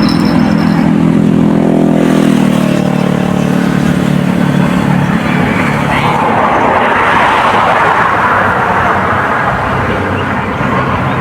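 A motor engine running close by, its pitch rising about two seconds in, then a loud rushing noise as it passes.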